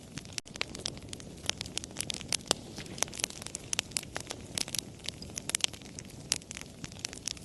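Wood fire crackling, with frequent irregular sharp pops and snaps over a steady low rush of burning.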